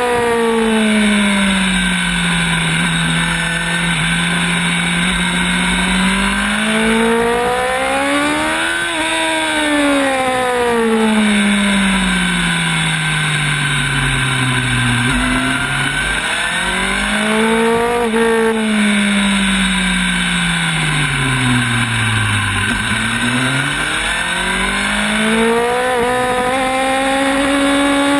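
Sport motorcycle engine on a track lap, its pitch climbing under acceleration and falling away as the rider slows for corners, three times over, with wind rushing past the camera.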